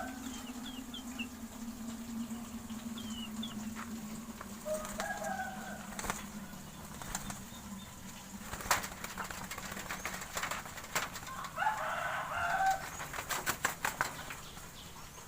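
Pigeons' wings flapping and clapping, in scattered beats and then a quick flurry near the end, with a hen clucking twice and small birds chirping. A steady low hum runs under the first half.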